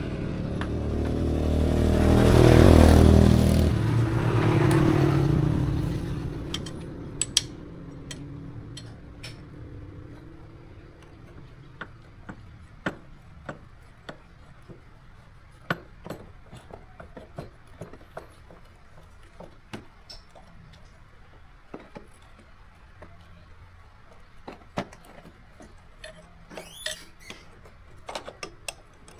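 Motorcycle engine revving up and dying away over the first few seconds, followed by scattered light clicks and taps.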